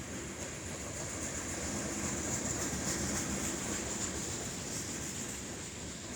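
Freight train rolling past, with steady wheel-on-rail noise that swells slightly in the middle and a steady high hiss.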